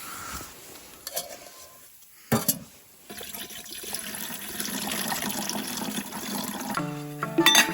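Water sounds with a couple of sharp knocks about two seconds in. Background music begins near the end.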